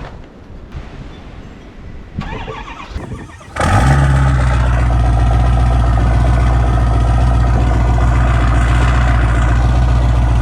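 Cold start of a 2008 Ford 6.4 Power Stroke V8 diesel, emissions-deleted and single-turbo. The starter cranks briefly, then the engine fires about three and a half seconds in and settles into a loud, steady idle.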